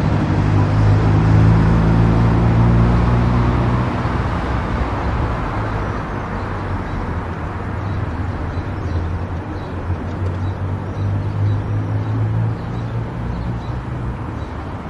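Car driving on a highway: steady road and tyre noise with a low engine hum, louder in the first few seconds and again in the middle, then easing.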